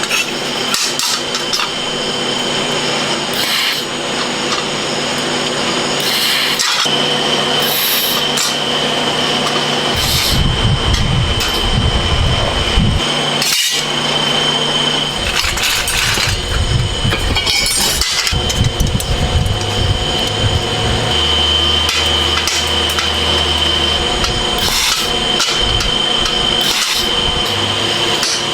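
Metalworking shop noise: a steady high-pitched whine under scattered knocks and clanks, with stretches of low rumbling.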